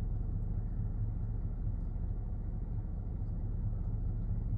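A steady low rumble of outdoor background noise, with no clear event standing out.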